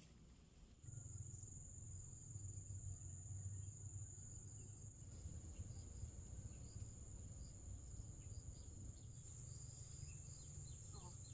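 Insects chirring outdoors: a steady high-pitched buzz that grows louder about a second in and becomes a fast pulsing near the end, with a low rumble underneath.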